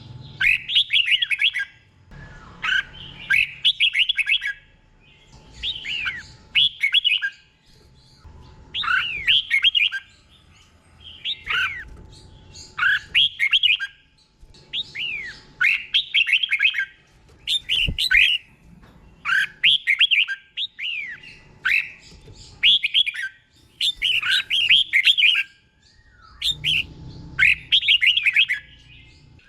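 Red-whiskered bulbul singing its 'doubled' song: short, clear whistled phrases of about a second each, repeated over and over roughly every two seconds.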